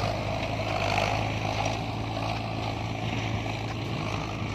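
Diesel engine running steadily with a constant low hum.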